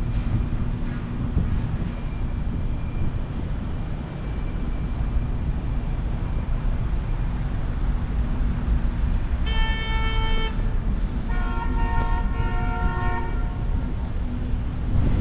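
Steady low rumble of city traffic, with two car horn honks about ten seconds in: a short honk of about a second, then a longer honk of about two seconds on a different, two-note pitch.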